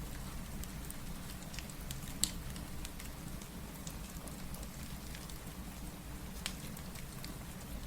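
Steady rain mixed with a crackling wood fire: an even hiss of rainfall with a low rumble under it, broken by scattered sharp pops from the fire, the loudest about two seconds in.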